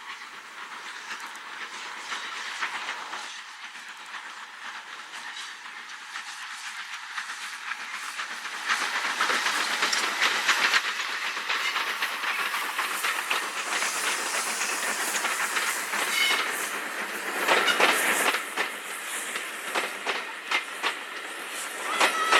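Train passing on a heritage railway, louder from about eight seconds in: a steady hiss over a rapid clickety-clack of wheels on the rails.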